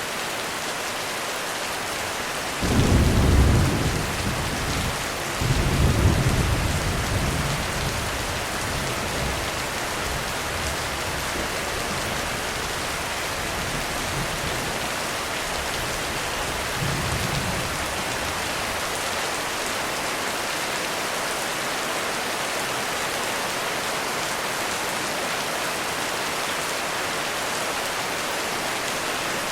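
Heavy rain pouring steadily on a roof. Thunder breaks suddenly about three seconds in, rolls again more loudly a few seconds later and fades away, with a fainter rumble about halfway through.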